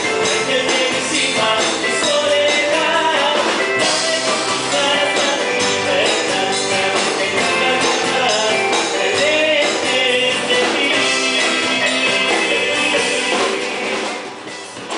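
Live band playing an instrumental break with drums keeping a steady beat under a moving melodic lead. The loudness dips briefly near the end, just before the next verse.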